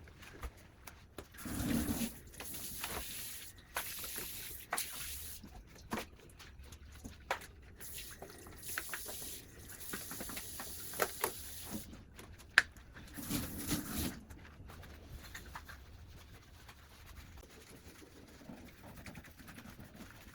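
Water running at a kitchen sink on and off, with scattered clinks and knocks of dishes or utensils being handled; one sharp knock stands out about twelve seconds in.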